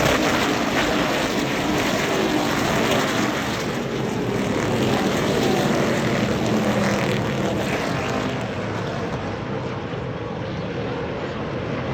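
A pack of NASCAR Craftsman Truck Series race trucks running at race speed, many V8 engines at once, their pitches sliding up and down as they shift and pass, easing off slightly near the end.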